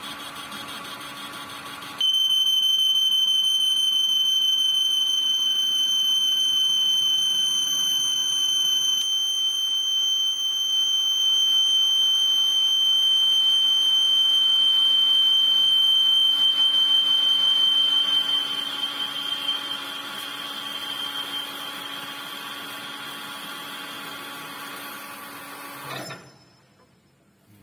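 Metal lathe running while cutting an internal thread, with a loud, steady high-pitched squeal from the cutting tool starting suddenly about two seconds in and fading during the later part. The lathe cuts off abruptly near the end.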